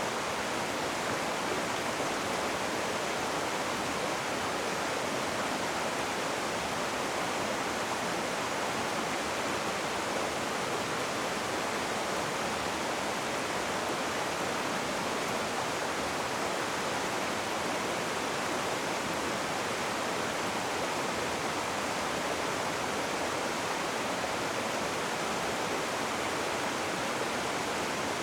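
Rushing water running steadily: an even, unbroken hiss with no distinct splashes or changes.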